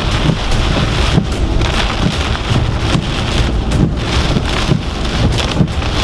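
Heavy hurricane rain and gusting wind beating on a moving car, heard from inside the cabin: a dense, loud hiss with constant small hits and a deep rumble underneath.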